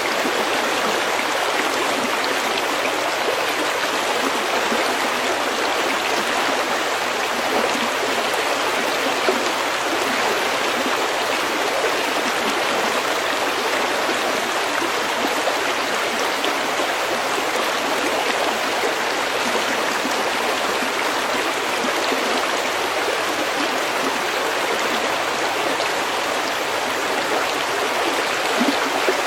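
A stream of running water flowing steadily over pebbles, a continuous even rush.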